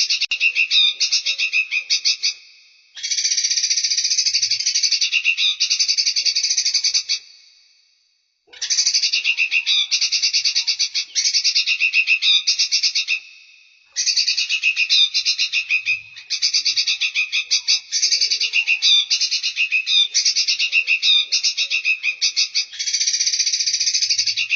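Songbird giving fast, high-pitched chattering trills in long bursts of several seconds, repeated after short pauses, as on a bird-training recording.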